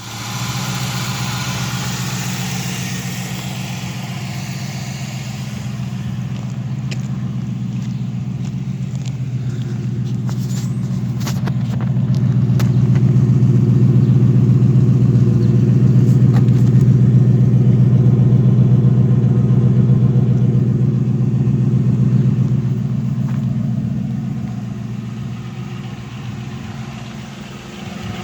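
Car engine running through a new exhaust just after a cold start, with a steady low drone that grows louder about twelve seconds in and eases off near the end.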